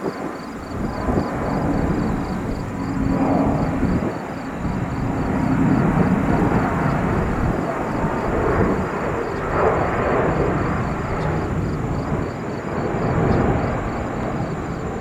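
Jet airliner engine noise: a low, rough rumble that swells and eases several times.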